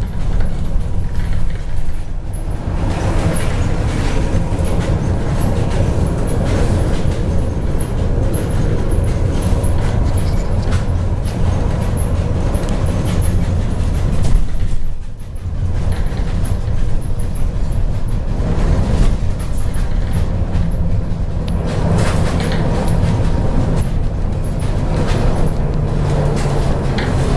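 Interior noise of a MAZ-103 city bus on the move: steady diesel engine drone and road rumble with small rattles. It eases off briefly about halfway through, then picks up again.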